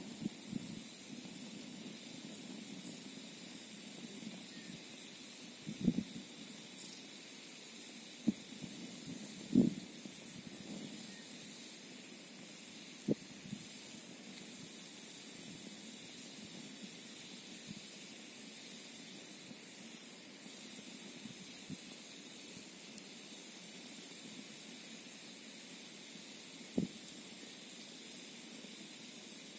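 Campfire burning with a steady hiss, broken by a few sharp pops and crackles at irregular intervals, the loudest about ten seconds in.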